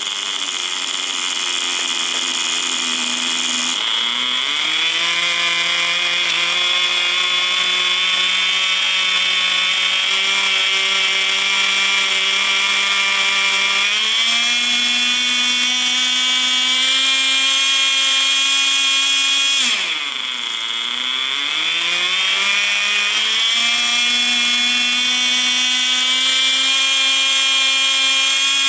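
Small nitro glow engine of a Tamiya TGS 1/10 RC car running at high revs with a steady, high buzzing whine. The revs step up twice, then drop sharply and climb back about two-thirds of the way through.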